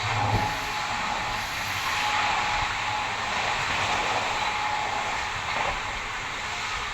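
Express passenger train running at speed, a steady rushing noise of wheels and coaches on the track, with a faint thin whine that comes and goes.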